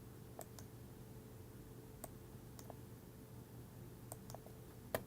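Faint, scattered clicks of a computer mouse, about seven in all with the sharpest one near the end, over a steady low room hum.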